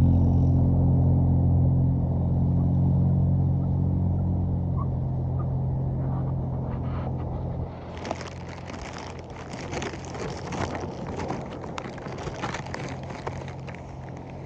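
A low, steady engine rumble that fades and stops about eight seconds in, giving way to a beach bonfire crackling and popping.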